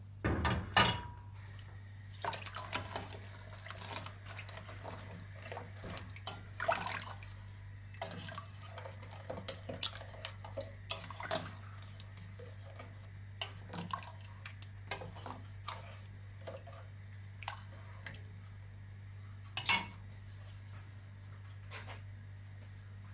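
A metal spoon or ladle clinking and scraping against a cooking pot while the sambar is stirred, in scattered short knocks with a louder clatter just under a second in and again near the end.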